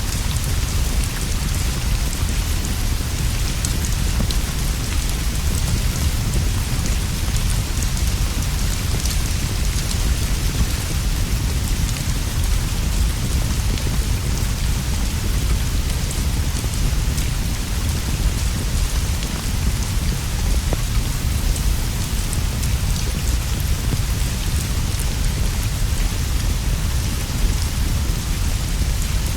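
Steady heavy rain falling on leaves and a straw roof, an even hiss over a deep low rumble, with faint scattered ticks of drops.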